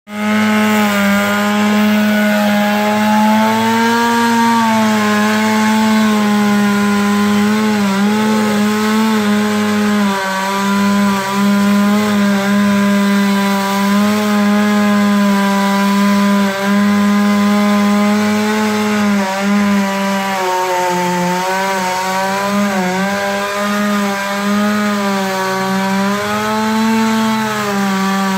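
Chainsaw running at high speed throughout, its pitch wavering and dipping slightly now and then as it cuts through wood.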